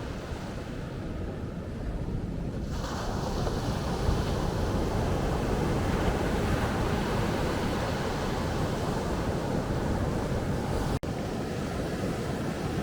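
Rough surf washing onto a sandy beach in strong wind, with wind rumbling on the microphone. The surf grows louder and brighter about three seconds in, and the sound cuts out for an instant near the end.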